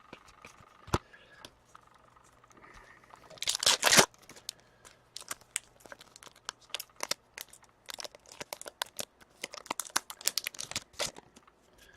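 A trading card pack wrapper torn open with one loud rip about four seconds in, followed by a run of quick clicks and snaps as the cardboard cards are handled and flipped.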